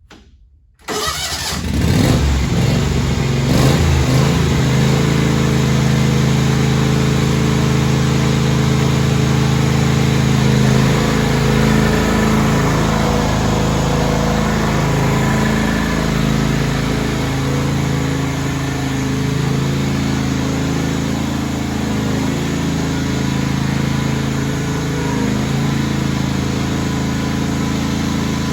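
John Deere LX277 lawn tractor's 17 hp two-cylinder Kawasaki gasoline engine started: a brief crank about a second in, it catches almost at once and then runs steadily. It starts right up.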